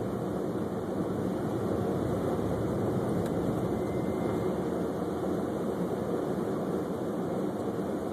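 Steady road noise of a car driving, heard inside the cabin: engine and tyre noise on a snow-covered road, even and unchanging.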